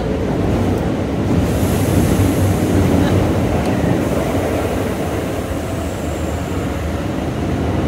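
Keikyu 1500-series electric train running, heard from inside the passenger car: a steady rumble of wheels and underfloor running noise. A thin high whine comes in briefly about a second and a half in.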